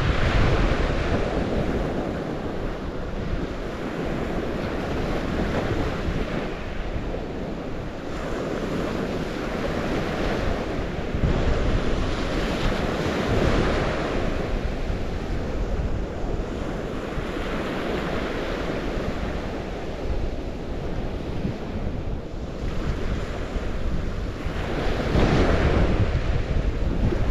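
Water washing in surges that swell and fade every few seconds, like waves on a shore, with wind rumbling on the microphone.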